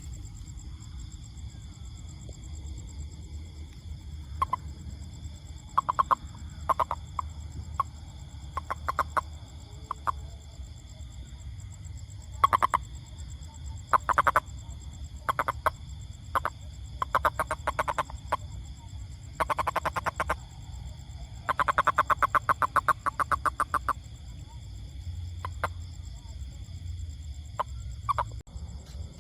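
Toad calling in irregular bouts of short pulsed croaks and rattling trills, all at about one pitch. The longest trill lasts a couple of seconds, about three quarters of the way through. A steady high-pitched hum runs behind the calls.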